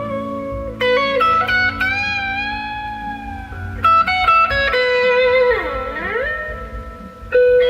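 Instrumental rock band playing, led by an electric guitar holding long sustained notes; about two-thirds of the way through, one note dips down in pitch and slides back up.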